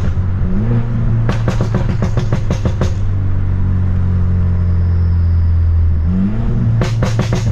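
Straight-piped exhaust of a tuned BMW F30 328i's turbocharged four-cylinder, droning steadily, with the revs rising twice. Two runs of rapid sharp cracks, the exhaust pops and bangs that the tune produces, come about a second in and again near the end.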